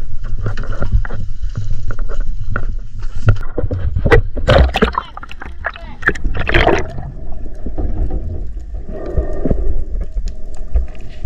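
Water splashing and sloshing over a steady low rumble, with two louder splashes about four and a half and six and a half seconds in.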